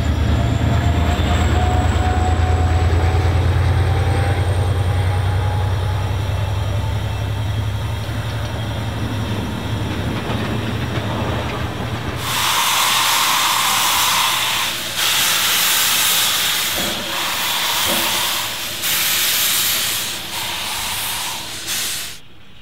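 An electric suburban train passes close by with a heavy low rumble and a faint rising motor whine. About halfway through it gives way to loud steam hissing from the Ww-class steam locomotive, in repeated bursts with short pauses between them, which cuts off near the end.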